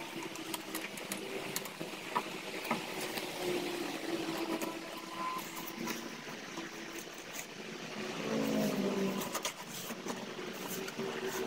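Power grinder running, its motor whine wavering in pitch as it is pressed into the work, with scattered sharp ticks and scrapes.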